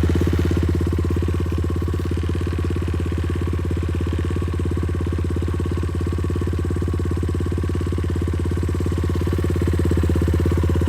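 Small motorcycle engine idling steadily at an even pitch, getting slightly louder near the end.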